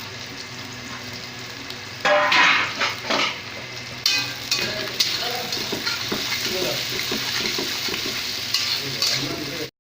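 Sliced onions frying in hot oil in a pan, sizzling steadily while a metal spatula stirs and scrapes them. There is a louder spell of stirring about two seconds in, the sizzle grows fuller and brighter from about four seconds in, and the sound cuts off suddenly just before the end.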